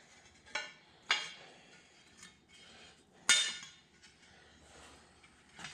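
Steel mower blades clinking as they are handled and set down: four separate metallic clinks, the loudest about three seconds in.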